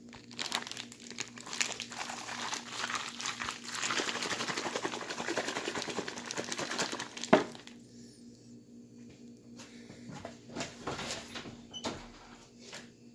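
Plastic bag rustling and crinkling for about seven seconds, fast and continuous, then a sharp knock and a few scattered crinkles and clicks.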